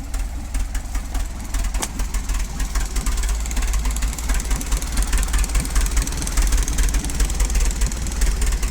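Old farm tractor's engine running steadily, a fast even chugging with a strong low rumble.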